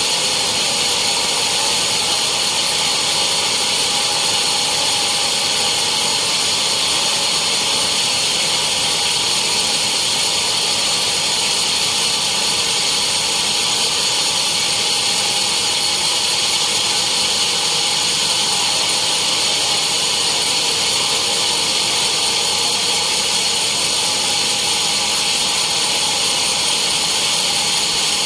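Sawmill saw running steadily, a constant high-pitched hiss that does not change.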